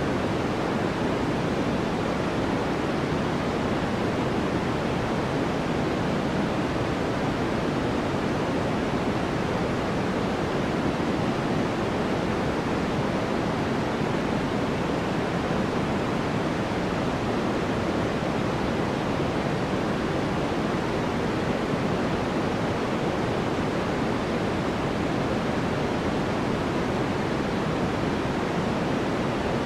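Steady white-noise background track: an even, unchanging hiss weighted toward the lower and middle pitches.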